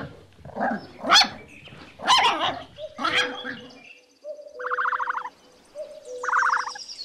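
Puppy yipping and whining in short, high-pitched barks for about the first four seconds. After that comes a different stretch of repeated short trilling bursts over a steady tone.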